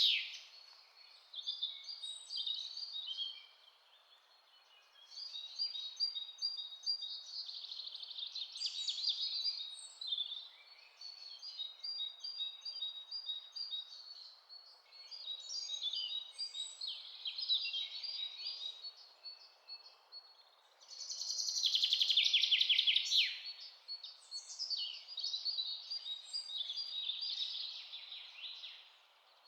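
Songbirds singing in a chorus: overlapping chirps, warbles and trills, with short lulls between phrases, over a faint steady background hiss. A loud, fast trill of descending notes stands out about three quarters of the way through.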